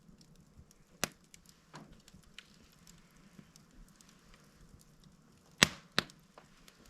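Slow-burning fireplace log crackling: scattered small ticks over a faint hiss, a sharp pop about a second in, and two loud pops close together near the end.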